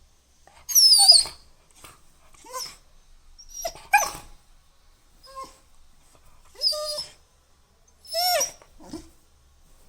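Labrador puppy giving a string of short, high-pitched whines and yelps, about six of them, the first the loudest.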